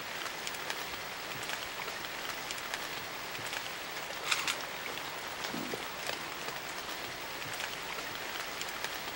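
Light rain falling on still lake water: a steady, even patter of many small drops, a little louder for a moment about four seconds in.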